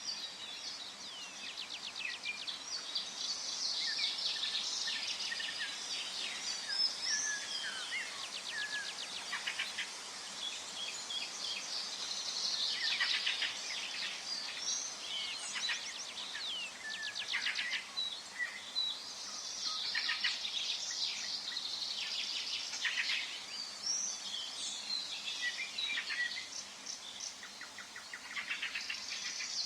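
Forest birdsong: several birds singing and chirping at once, with whistled phrases and rapid trills, over a faint steady background hiss.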